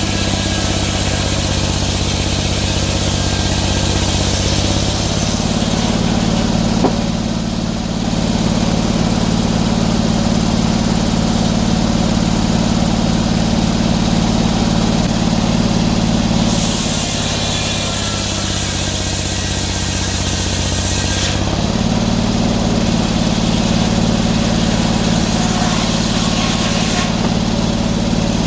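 Sawmill engine running steadily while sawing oak, its note shifting a few times as the load on the blade changes.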